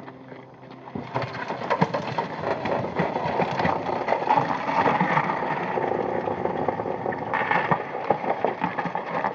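A crashed car being pushed or dragged along the road, with its snapped-off broken part scraping and grinding over the surface. The result is a loud, irregular clattering scrape that starts about a second in.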